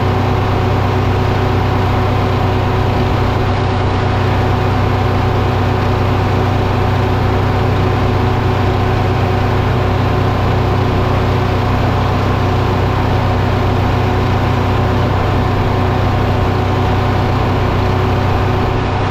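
Engine running steadily at a constant speed, an even drone with no change in load.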